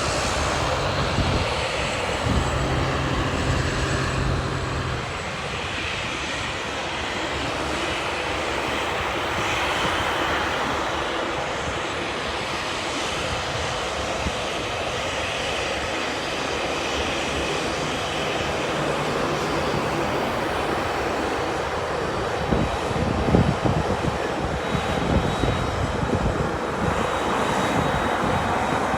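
Jet airliner engines running steadily, a continuous rushing noise with a faint high whine near the end.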